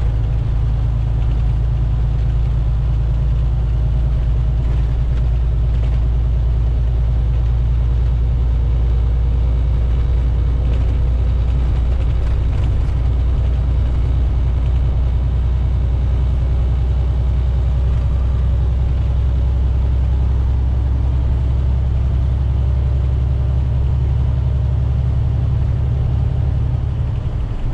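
Semi truck's engine and road noise droning steadily inside the cab while driving on a snowy highway.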